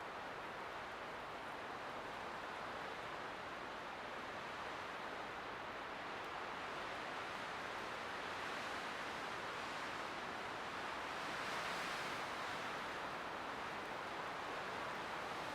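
Light wind blowing steadily as a soft, even hiss, swelling a little about three quarters of the way through.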